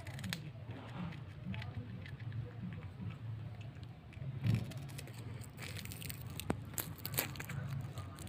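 Domestic cat chewing a dry, crunchy snack: a run of short, sharp crunches, coming thicker in the second half, over a steady low hum.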